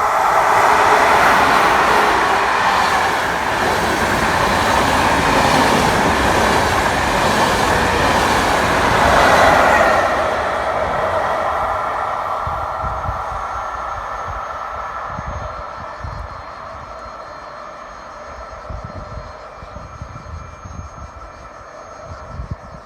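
Electric train passing through a station, its wheels on the rails loud for about the first ten seconds and then fading away as it recedes, with irregular low thuds from the track near the end.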